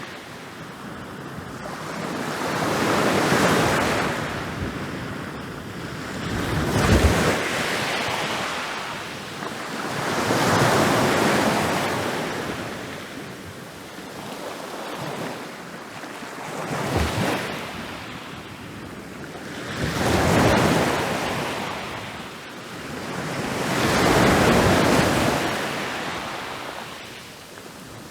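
Ocean surf: waves rolling in and crashing on a beach one after another, each swelling up in a rushing wash and draining away, about every three to four seconds. Two of the breaks land harder, with a deep thud.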